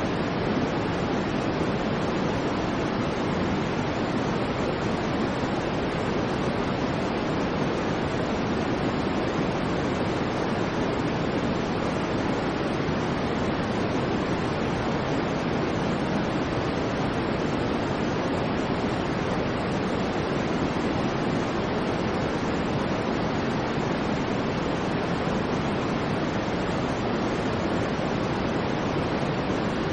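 Steady white noise: a constant, even hiss with no tones, breaks or swells, its weight lying low rather than in the treble.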